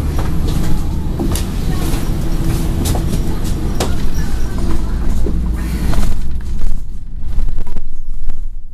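Scania N113 bus's diesel engine running, heard from inside the bus, with scattered clicks and rattles from the interior.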